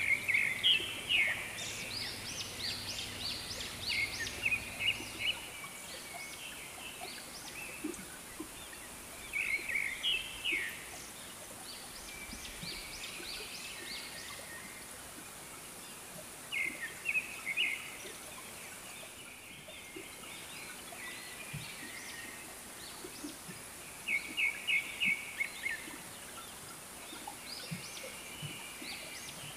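Birds calling in short bouts of quick, high chirping notes, four bouts spaced a few seconds apart, over a steady outdoor hiss.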